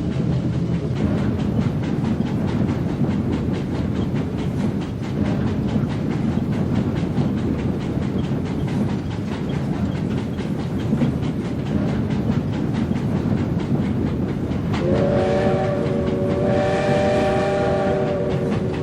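Steam locomotive running with a fast, even beat over the rails. About fifteen seconds in, its chime whistle blows several tones at once, held for a few seconds, breaks briefly and sounds again near the end.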